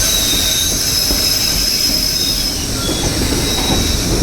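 Narrow-gauge passenger train running, heard from aboard: the low rumble of the cars on the rails, with the wheels squealing in high, steady tones that shift in pitch as they go.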